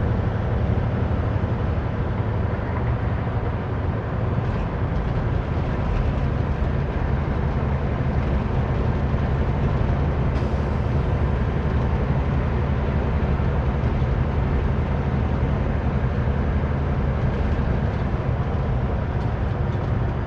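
Semi-truck diesel engine and road noise heard from inside the cab while driving, a steady low drone.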